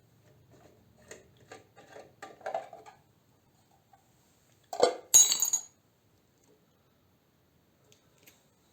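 Small metal tools and parts tapping and clicking in a quick run, then a loud metallic clatter with a bright ringing clink about five seconds in.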